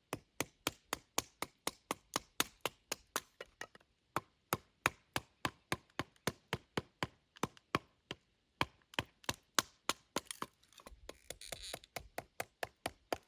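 Wood being chopped or split into firewood: a long run of sharp, evenly spaced knocks, about four a second, with a brief hiss near the end.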